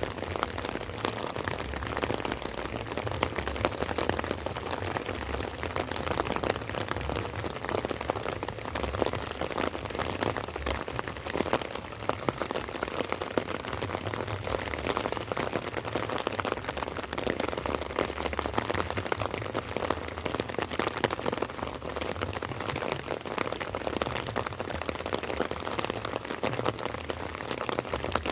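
Light rain falling, a steady dense crackle of many small drops hitting surfaces.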